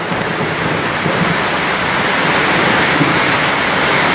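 Heavy rain pouring steadily, a dense, even hiss that grows slightly louder about halfway through.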